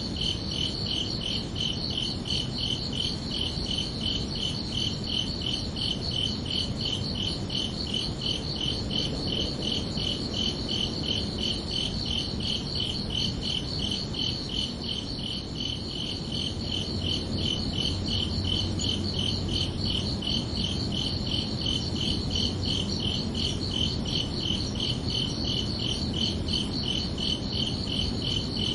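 Crickets chirping in a steady, evenly pulsed rhythm at two high pitches, over a low steady rumble.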